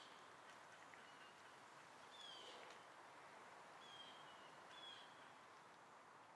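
Faint woodland birds calling: three or four short, falling chirps, the clearest about two seconds in, over a steady faint hiss.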